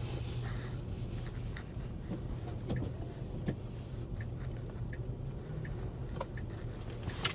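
Cabin sound of a 2021 Tesla Model 3 moving off: a steady low hum with scattered light clicks, and a short rising squeak near the end.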